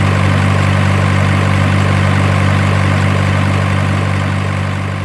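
An engine idling with a steady, even low drone that begins to fade out near the end.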